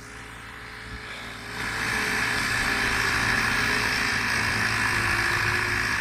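Water pump running steadily with rushing, hissing water, which swells up about a second and a half in and then holds.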